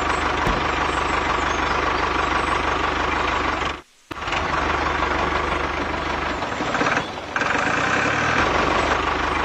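A machine running steadily, with an engine-like hum under a dense mechanical rattle; the sound cuts out abruptly for a fraction of a second about four seconds in, and dips briefly again around seven seconds.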